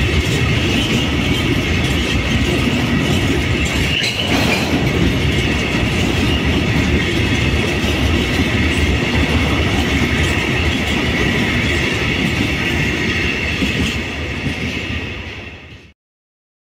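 Freight train of covered hopper wagons rolling past at close range: wheels rumbling steadily over the rails with a steady high squeal. The sound fades out and drops to silence near the end.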